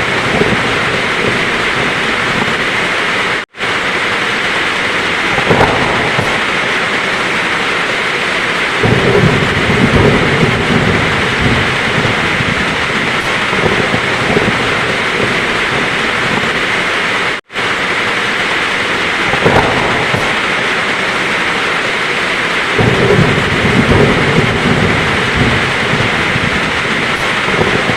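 Heavy rain falling steadily, with two low rolls of thunder, each lasting a few seconds. The recording drops out for an instant twice, where the looped track repeats.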